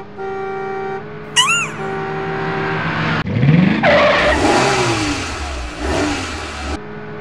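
Cartoon toy-car sound effect: an engine revs up sharply and drives in with a rushing noise, then its pitch falls away. Before it, held musical tones and a brief wobbling whistle effect about a second and a half in.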